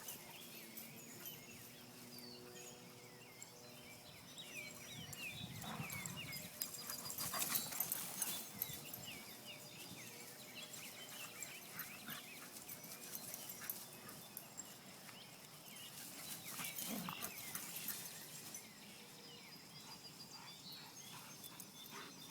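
Faint outdoor sounds of dogs moving about, with louder stretches of rustling about six to eight seconds in and again around seventeen seconds.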